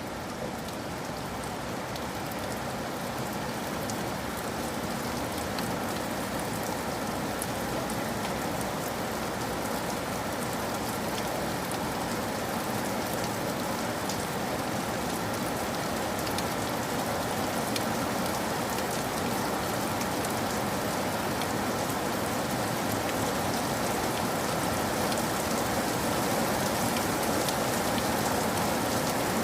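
Steady rain falling, a dense even hiss with fine patter of drops, slowly growing louder.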